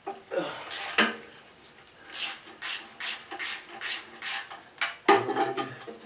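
Ratchet wrench backing out oil pan bolts: a sharp clack about a second in, then a run of six even ratcheting strokes about two a second, and a quicker burst of clicks near the end.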